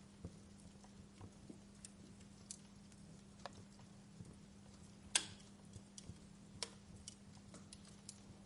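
Wood fire in a fireplace crackling: scattered small pops and snaps at irregular times, with one louder pop about five seconds in, over a faint steady low hum.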